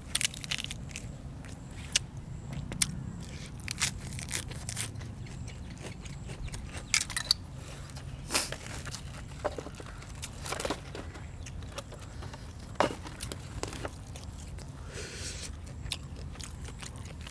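Close-miked eating sounds: chewing and crunching with scattered sharp clicks, over a steady low hum.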